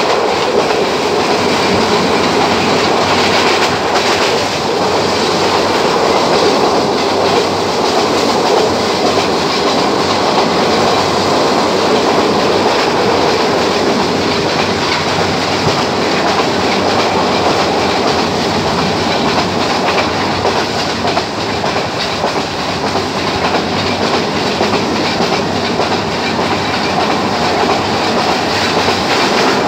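Mohanagar Goduli intercity passenger train running along the Chittagong–Dhaka line, its wheels making a steady, continuous running noise on the rails.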